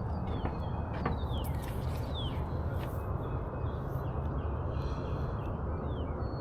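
Small birds calling with short, quick falling whistled notes, over a steady low rumble.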